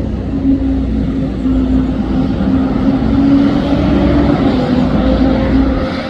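Bus engine running with a steady drone over a low rumble.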